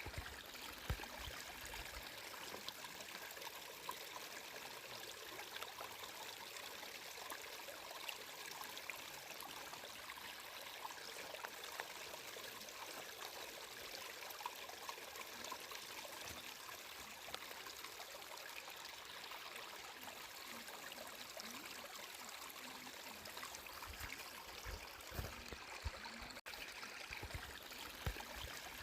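Flowing water trickling and babbling steadily, as of a small stream, with a split-second dropout in the sound near the end.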